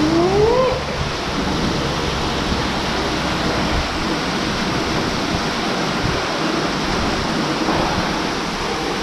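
Steady rushing noise of falling water, like a waterfall or fountain, with a short rising tone in the first second.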